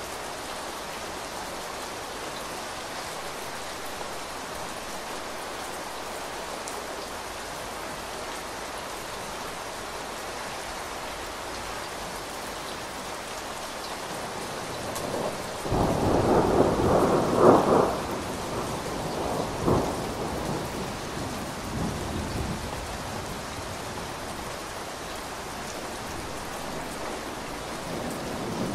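Steady heavy rain on a window. About halfway through a loud peal of thunder comes in, strongest for a couple of seconds, then rumbles off over several more.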